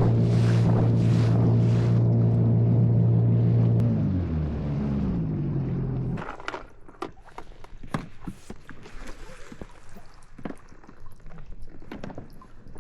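Motorboat engine running steadily, then dropping in pitch as it slows and cutting off about six seconds in. After it stops, scattered knocks and clatter follow.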